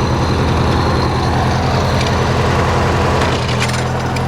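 Small single-cylinder engine of an MTD-built riding tractor running steadily while the tractor is driven. Its note smooths out and steadies about three and a half seconds in.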